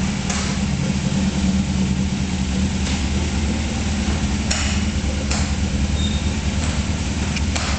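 Toyota 4A-GE twin-cam four-cylinder engine on Weber 45 carburettors idling steadily in a Celica RA23, with a few sharp clicks or knocks over it.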